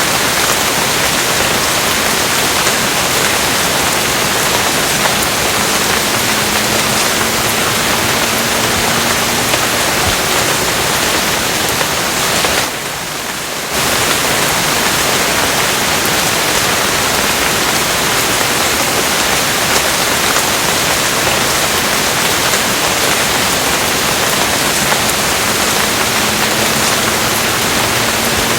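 Steady, dense rain, a constant even hiss. It drops in level for about a second near the middle.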